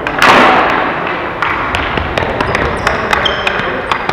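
Ball hockey play: a loud crash about a quarter second in, then sticks and ball knocking and clacking in quick, irregular hits, with a few short high squeaks.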